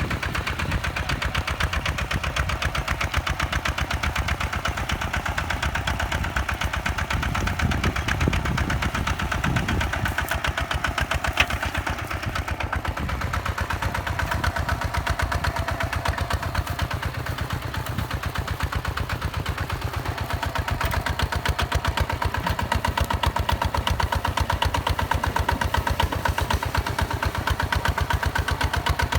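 Single-cylinder direct-injection diesel engine of a Hinota HG Gold 155 DI tractor running steadily, with a rapid, even firing beat.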